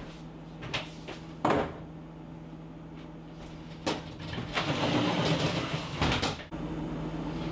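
Several sharp knocks and clacks, the loudest about one and a half seconds in, then a longer rustling scrape, over a steady low hum. The sound cuts off abruptly near the end.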